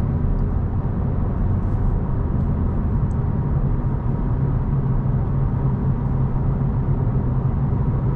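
Steady engine hum and road rumble of a 2025 Honda Civic being driven, heard from inside the cabin.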